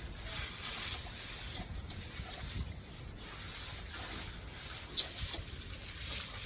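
Steady hiss of water spraying while a sow is being washed down.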